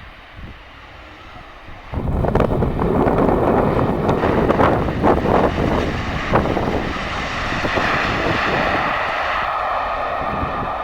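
Jet airliner engines, loud and close. The noise comes in suddenly about two seconds in, crackling at first, then settles into a steady roar with a whine.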